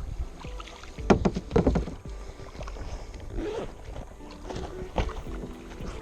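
Knocks, clunks and rustling of gear being handled in a kayak, with a cluster of knocks about a second in and a single sharper knock near the end, over a low rumble on the microphone.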